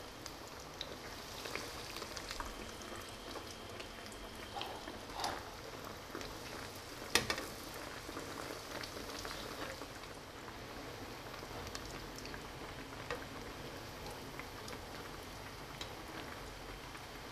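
Breaded chicken patties frying in hot oil in a pan: a steady sizzle with fine crackling. About seven seconds in comes a single sharp knock, the loudest sound, as a metal slotted spoon lowers another patty into the oil.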